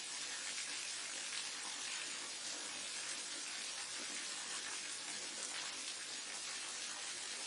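Small forest waterfall and stream water rushing, a steady even hiss with no breaks.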